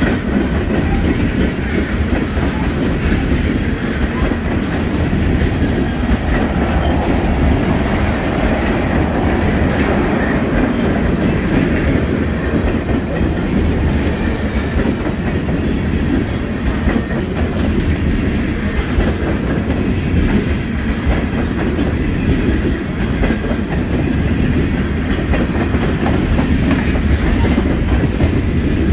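Tank cars of an oil train rolling by, a steady rumble with the clickety-clack of steel wheels on the rails.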